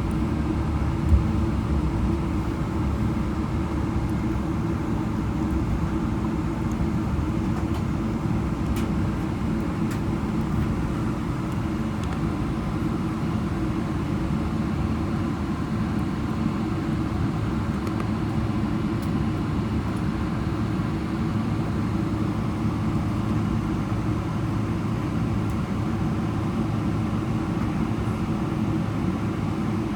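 Boeing 777-300ER landing rollout heard from inside the cabin: a steady low rumble of the wheels on the runway and the GE90 engines, with one sharp thump about a second in.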